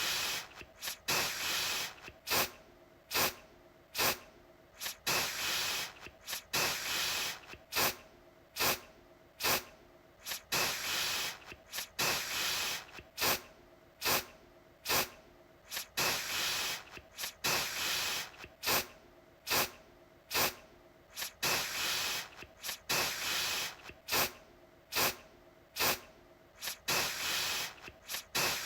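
Aerosol deodorant can spraying in repeated hissing bursts, a mix of quick puffs and longer sprays of about a second, one to two bursts a second.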